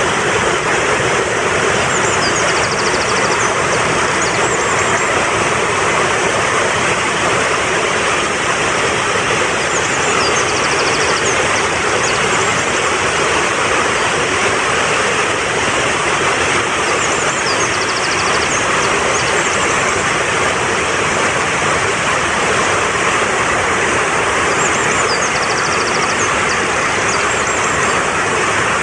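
Mountain stream rushing steadily over rocks. A bird's short chirping phrase sounds above it four times, about every seven seconds.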